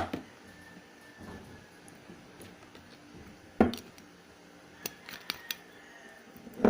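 Kitchen containers being handled: a sharp knock about three and a half seconds in, a few light clicks a second or so later, and another knock near the end, as the apple cider vinegar bottle is handled.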